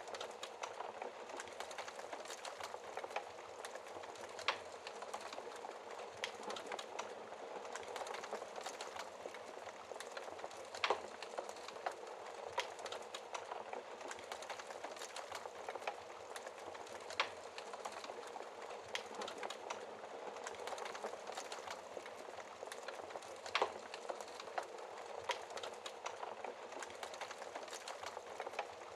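Wood fire crackling in a fireplace: a steady hiss with frequent small snaps and a few louder pops spread through.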